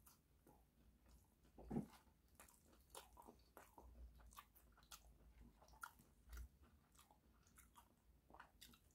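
Faint chewing of a cheesy Parmesan-crusted burger melt sandwich: many small, soft mouth clicks scattered throughout, with one slightly louder short sound just under two seconds in.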